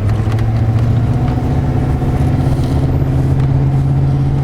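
Vehicle engine running and gradually picking up speed, its steady hum rising slowly in pitch.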